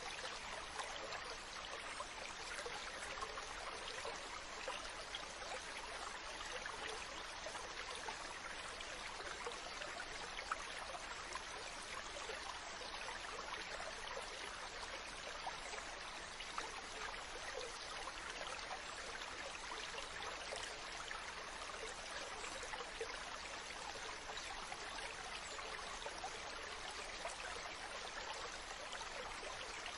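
Mountain stream running over rocks: a steady rush of water with small splashes and bubbling, unchanging throughout.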